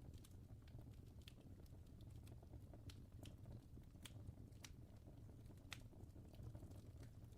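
Faint crackling fire: a low steady rumble with irregular sharp pops and snaps scattered through it.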